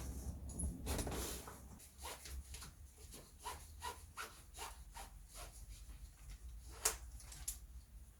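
A run of light clicks and knocks from parts being handled, with one sharper click about seven seconds in, over a low steady hum.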